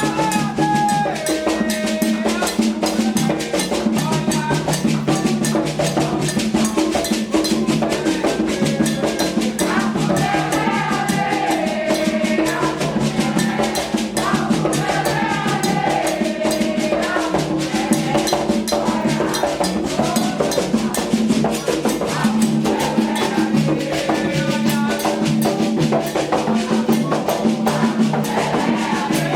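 Candomblé ritual music: atabaque hand drums beating a fast, steady rhythm while voices sing a chant over them.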